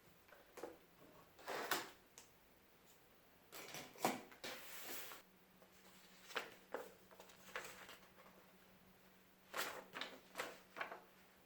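Light knocks, clicks and a brief rustle of household objects being handled, in scattered short bursts.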